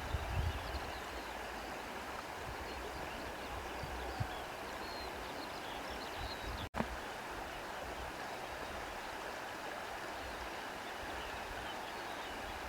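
Steady rushing of wind through foliage, with low gusts buffeting the microphone near the start and faint, scattered bird chirps in the background. The sound cuts out for an instant a little past halfway.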